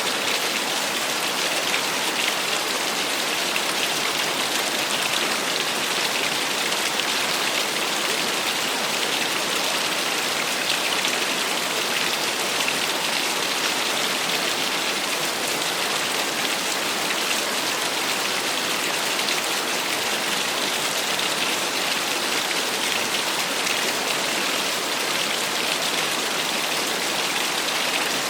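Small waterfall splashing steadily, an even, unbroken hiss of falling water.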